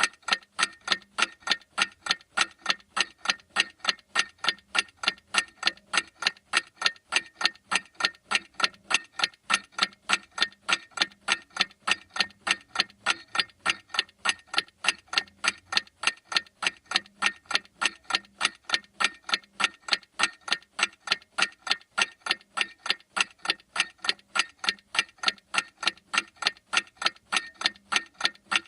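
A clock ticking: fast, even, sharp ticks, a few a second, without a break.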